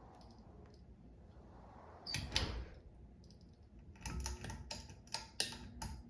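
A dull thump about two seconds in, then a quick run of sharp clicks and knocks near the end.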